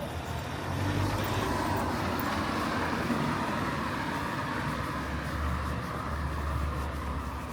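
Road traffic passing on a wet street: a steady hiss of tyres with engine rumble, and a deeper engine rumble about five seconds in.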